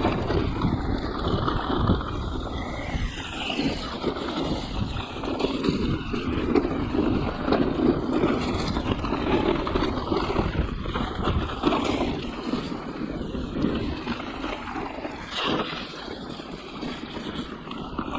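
Mountain bike riding fast down a wet, rough trail: wind rushing over the microphone, with tyre noise and frequent knocks and rattles from the bike over the ground.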